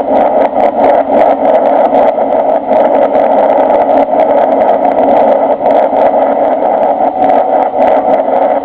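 Cabin noise inside a Boeing 747-300 during its landing: a loud, steady rush and drone of engines and airflow, with frequent short rattles throughout.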